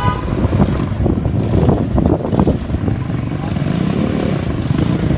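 Loud, rough motor vehicle and road noise, as picked up by a dashcam.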